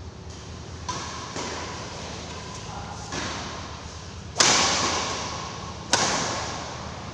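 Badminton rackets striking a shuttlecock in a rally, sharp hits about every one and a half seconds, the two loudest near the end ringing on in a large hall.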